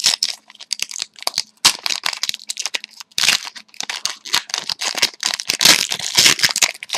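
Trading-card pack wrappers being torn open and crinkled by hand, an irregular crackling and rustling that swells about three seconds in and again near the end; the packs are fiddly to open.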